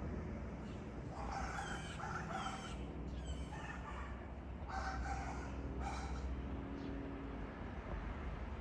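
Birds calling outdoors: a series of short, harsh calls repeating every second or so, with a few thin, quick chirps among them, over a steady low rumble.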